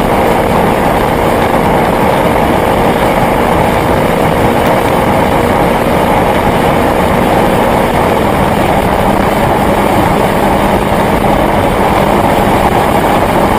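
Twin-turbo V8 performance car running steadily, its engine note mixed with a dense, even rush of road and wind noise. The pitch holds level throughout, with no revving or gear changes.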